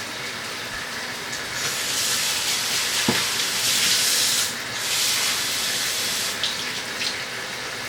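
Water running from a kitchen tap, a steady hiss that grows louder about a second and a half in, dips briefly midway and eases off near the end, with a single click about three seconds in.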